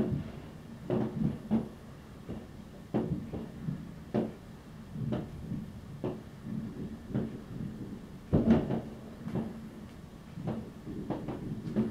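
New Year's Eve fireworks going off at a distance: an irregular stream of muffled bangs and pops, with a denser, louder cluster of bangs about two-thirds of the way through.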